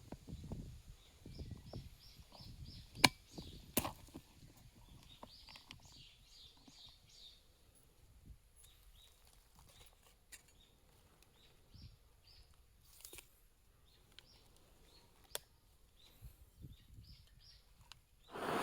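A small bird calling in quick runs of short, high notes, several times over. A few sharp clicks or knocks stand out, the loudest about three seconds in, over low rustling early on.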